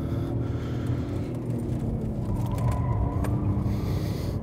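Cabin sound of a 2001 Volkswagen Jetta VR6's narrow-angle V6 engine running hard under load during a fast lap, with a steady high tone joining about halfway through.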